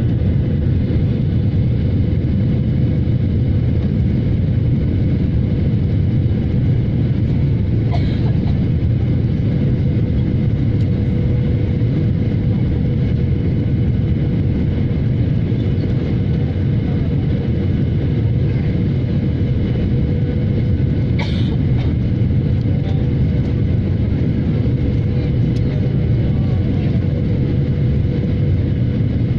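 Steady jet engine and airflow noise of a Boeing 737 as heard inside its cabin in flight: a constant low rumble with a steady hum, and a couple of faint clicks.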